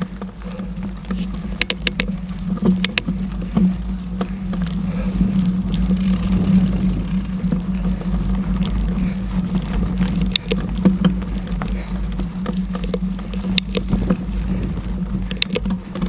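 Mountain bike rolling along a dirt trail: a steady rumble from the tyres and wind on the camera microphone, with sharp clicks and rattles from the bike a few times.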